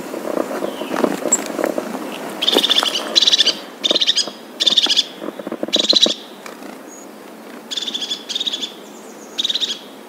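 A bird calling in short, high, rapid chattering bursts, each under half a second and about a second apart, with a pause partway through.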